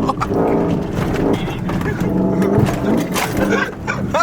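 Vehicle engine running hard on an off-road trail, its pitch rising and falling as the throttle comes on and off.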